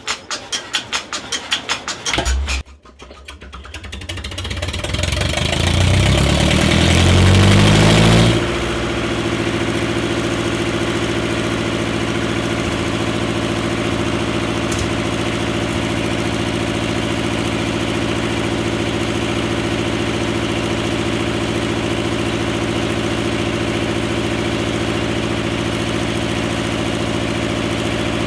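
Lister FR4 four-cylinder diesel engine starting: a run of regular pulses for about two seconds, a brief dip, then a sound that builds and rises in pitch for about five seconds before the engine settles, about eight seconds in, into a low, steady diesel pulse at idle.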